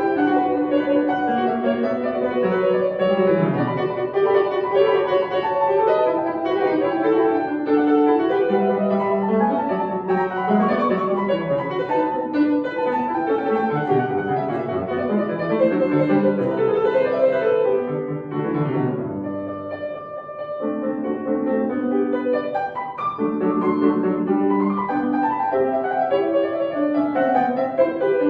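Solo acoustic piano playing a classical piece, notes running continuously, with a brief softer passage about two-thirds of the way through.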